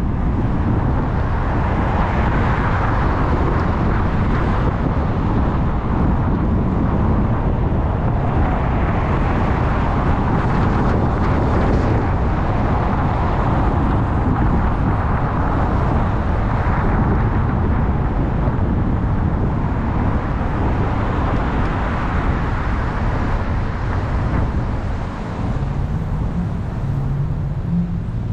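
Car driving along: steady road rumble and engine noise with some rushing air. Near the end a low engine hum rises in pitch.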